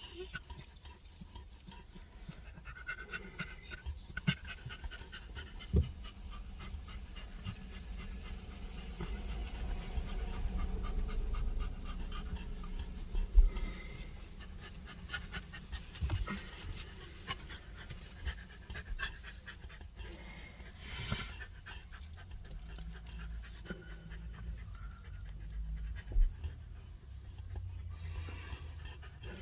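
A dog panting rapidly and steadily close by, over a low steady rumble, with a few sharp knocks, the loudest about halfway through and again near the end.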